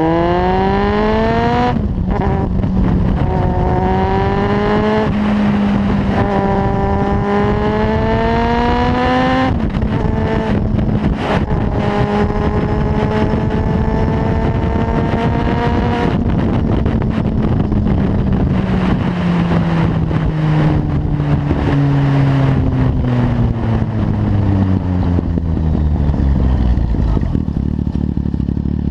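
Kawasaki Z750's inline-four through a carbon LeoVince exhaust, accelerating through the gears: the engine note climbs and drops back at each of three upshifts in the first ten seconds. It then holds a fairly steady pitch for several seconds before winding down as the bike slows, settling to idle near the end.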